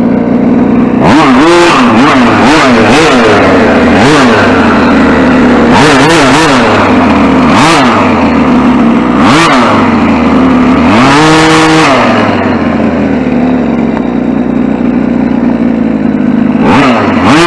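RC short course truck's motor whining up and down in repeated short bursts of throttle as the truck is driven, with one longer held run about eleven seconds in and a lull before a last burst near the end.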